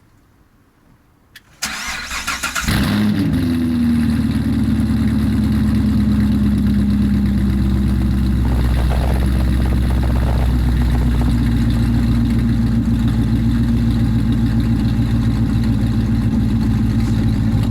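Straight-piped 2014 Corvette Stingray's 6.2-litre LT1 V8, with aftermarket headers and X-pipe, cold-started. After a click and about a second of the starter cranking, it catches about three seconds in with a loud flare. It then settles into a loud, steady cold idle.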